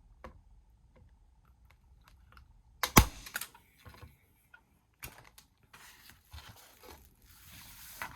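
Small clicks and handling noises, then one sharp snap of a hand staple gun firing a staple over a chenille stem into the back of a wooden sign about three seconds in, and a softer click about two seconds later.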